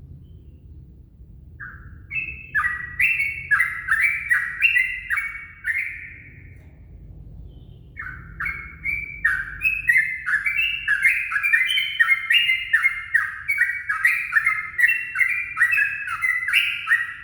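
Yellow-vented bulbul (trucukan) song used as a lure call: two runs of rapid, bubbly chattering notes, the first about two to six seconds in, the second from about eight seconds on, over a low rumble.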